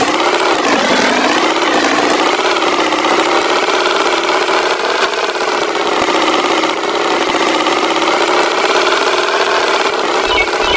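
Tractor engine running steadily, its pitch dipping briefly about a second in and then holding even.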